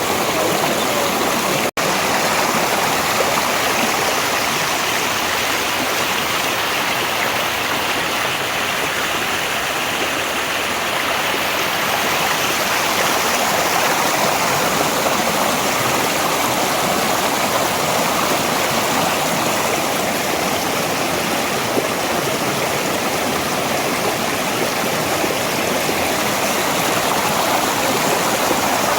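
Valley stream of running water flowing steadily, an even rush with a momentary dropout about two seconds in.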